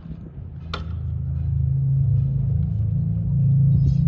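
A single sharp knock, then a low mechanical rumble that swells up from about a second in and holds steady and loud.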